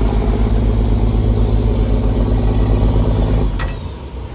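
Fishing trawler's diesel engine running loudly and steadily, dropping away about three and a half seconds in, with a short click right after.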